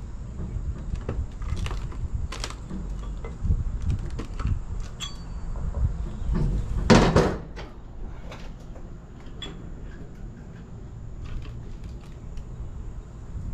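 Scattered knocks, clicks and scrapes of stone facing being pried and worked loose from a masonry column, with one louder scraping clatter about seven seconds in, over a steady low rumble.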